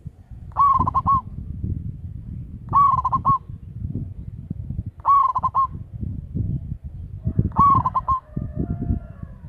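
Zebra dove (perkutut) cooing: four short calls, each a quick run of three or four notes, repeating about every two and a half seconds over a low background rumble.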